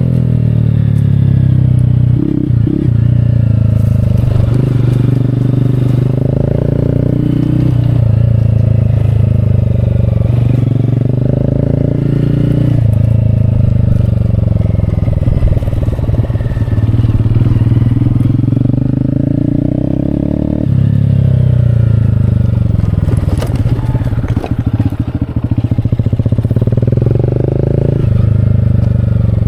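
Honda Grom's small single-cylinder motorcycle engine running under way, its pitch rising and falling with throttle and shifts and dropping back twice before climbing again.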